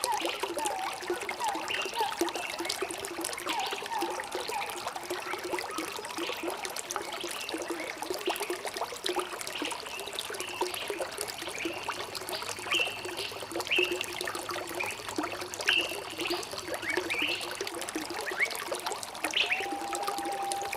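Water trickling and gurgling steadily, with birds chirping over it in short, repeated calls; in the first few seconds one bird gives a quick series of short, similar notes.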